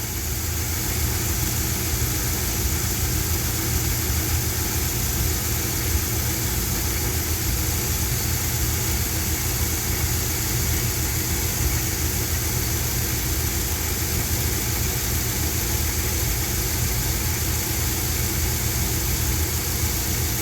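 1973 Dodge D100 pickup's engine idling steadily.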